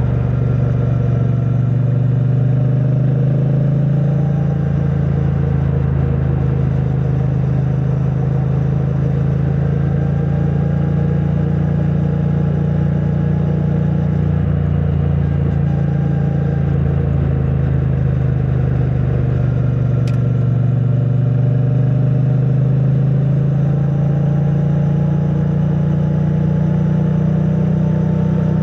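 2022 Triumph Bonneville T100's parallel-twin engine running through its stock exhaust at a steady cruise, its pitch easing and climbing gently with the throttle and rising a little near the end. Heard through a microphone stuffed in a backpack.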